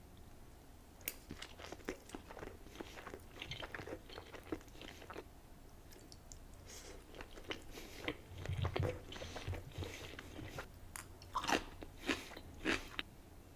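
Close-miked eating sounds of a person chewing seafood: wet mouth clicks and smacks with irregular crackles and bites, denser in spells about two-thirds of the way through and near the end.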